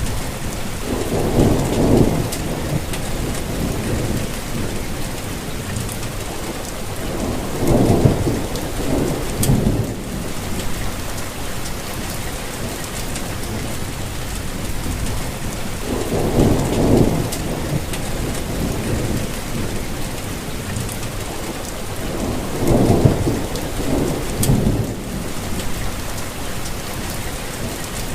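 Steady rainfall with low thunder rumbling four times, each roll lasting about two seconds.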